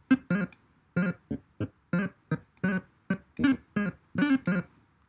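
Procedurally generated synth blips from Blender's Audio Nodes, a rapid chiptune-like run of short plucky notes, about three a second, each at a different pitch. The pitch is set by the texture pixel read at the sample point.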